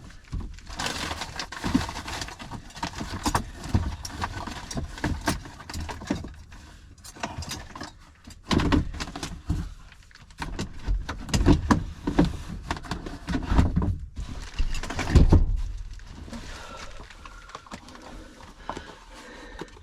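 Rummaging through camping gear for something to use as a coffee cup: irregular clinks, rattles and thuds of objects being moved and set down, with a few louder thumps.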